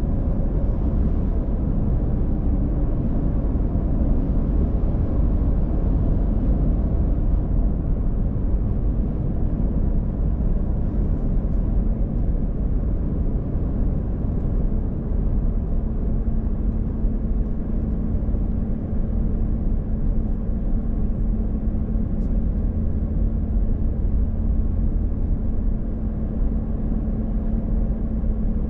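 A car driving steadily on the highway: a constant low rumble of road and engine noise, joined by a steady low hum from about halfway through.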